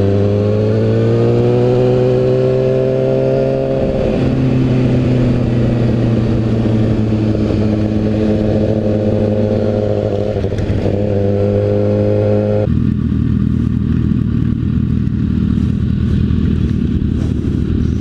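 2012 Kawasaki Ninja ZX-6R sport bike's inline-four engine running at steady revs while riding. The pitch steps down about four seconds in and again, more sharply, about two-thirds of the way through, as the revs drop.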